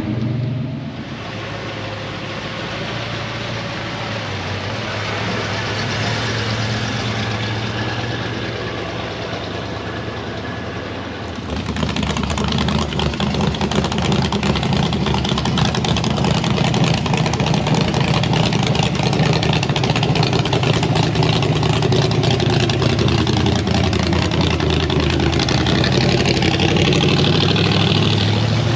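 Vehicle engine running, growing louder and heavier about eleven seconds in and staying steady after that.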